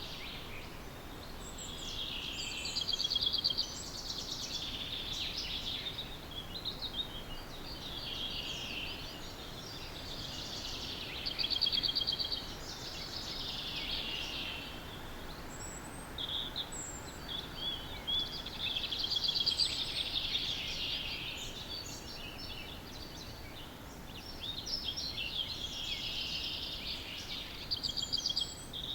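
Dawn chorus of songbirds: one bird repeats a short trilled song phrase of two to three seconds roughly every eight seconds, with other birds chirping in between, over a steady background hiss.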